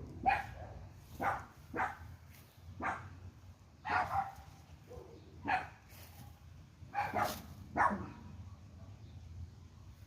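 A dog barking repeatedly, about nine sharp barks at irregular intervals.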